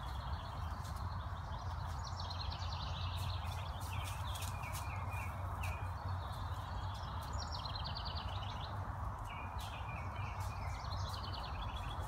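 Songbird singing short, rapid trilled phrases, about four of them, each sliding slightly downward. Under it runs a steady low outdoor rumble.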